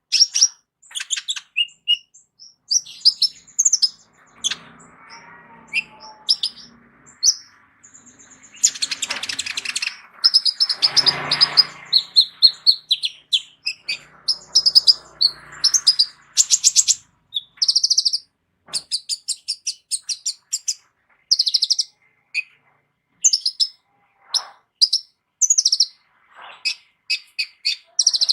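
Captive purple-throated sunbird (kolibri ninja) singing a fast, varied song of high chirps, trills and short whistled notes, its repertoire full of mixed phrases. A brief rustling noise comes up about ten seconds in.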